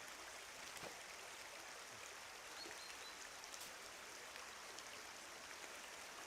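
Faint, steady rush of flowing water, like a small stream trickling, with a few faint high chirps.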